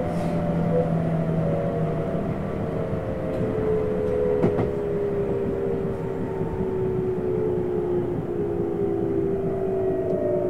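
Tokyu 7700 series commuter train running, heard from the front car over a steady rush of wind and track noise. Its motor whine falls slowly in pitch as the train slows toward the next station. There is a single sharp click about four and a half seconds in.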